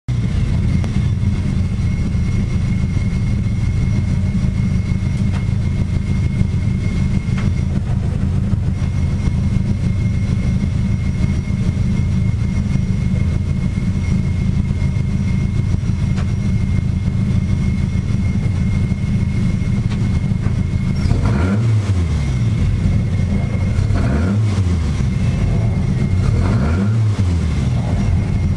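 An Alfa Romeo 1750 GTV race car's twin-cam four-cylinder engine idles steadily, heard from inside the cabin. In the last quarter it is revved four times in quick throttle blips, each rising and falling in pitch.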